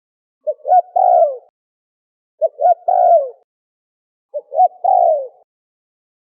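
Spotted dove (terkukur) cooing: three calls about two seconds apart, each two short coos followed by a longer coo that falls in pitch.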